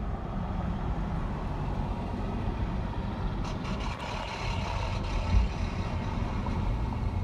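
Steady low rumble of a truck driving, engine and road noise as heard from the cab, with one dull thump about five seconds in.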